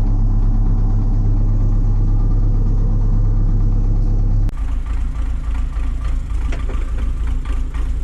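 Diesel tractor engine running at idle. About halfway through, the sound cuts abruptly to a rougher, clattering engine.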